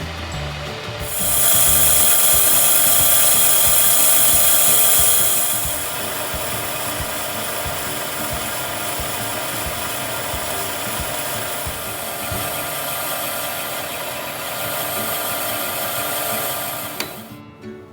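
CNC milling spindle cutting, with a steady multi-tone whine and cutting noise. The cut is loudest for its first few seconds, then carries on more evenly before dropping away near the end.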